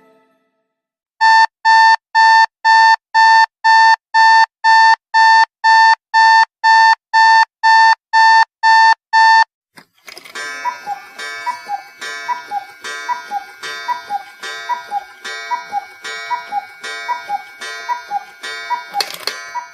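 Infinix XOS 14 phone tones played back to back: an electronic beep repeating evenly about twice a second for some eight seconds, then, after a short gap, a chiming electronic melody that loops.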